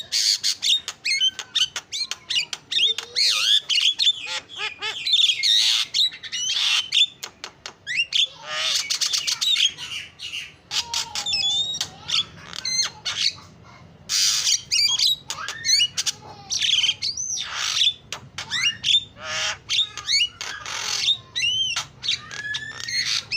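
Javan myna (jalak kebo) singing vigorously: a long, varied string of harsh squawks and chatter mixed with clear whistled glides, changing rapidly with short pauses between phrases.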